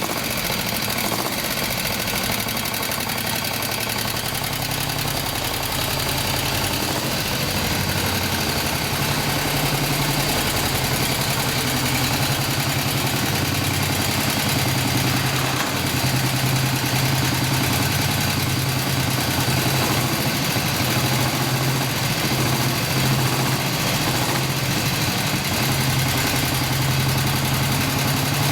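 1930 Terrot HOS's 350cc single-cylinder side-valve four-stroke engine running steadily, getting slightly louder about nine seconds in.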